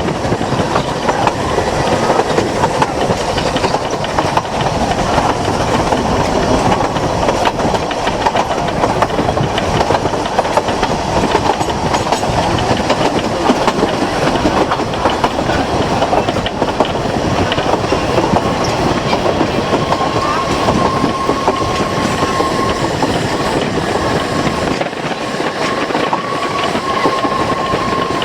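Narrow-gauge train running on the rails, a steady rumble and rattle full of fine clicks from the wheels on the track. About two-thirds of the way through, a thin high wheel squeal sets in and holds, breaking off briefly a few times.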